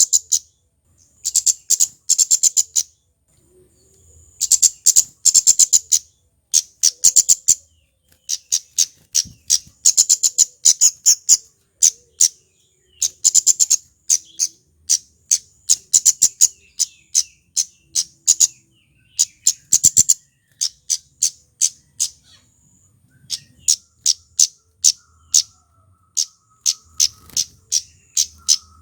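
A male flowerpecker (kemade) repeats sharp, very high-pitched 'cit' notes in rapid bursts of about a second, roughly ten notes a second, with short pauses between bursts.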